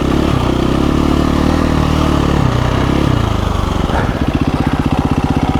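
KTM 350 EXC-F's single-cylinder four-stroke engine running on and off the throttle, then dropping to an even idle about four seconds in.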